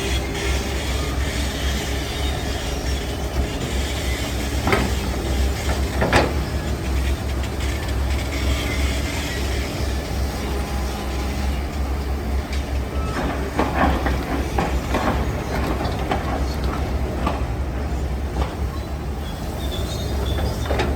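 Heavy diesel construction machinery running with a steady low rumble, with sharp metallic knocks twice in the first third and a cluster of clanks about two-thirds of the way through.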